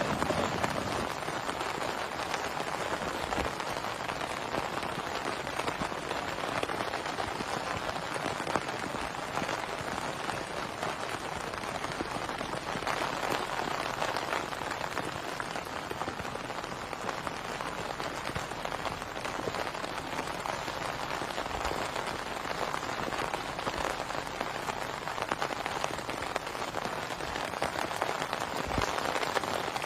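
Heavy rain falling steadily, a dense patter of drops with no let-up.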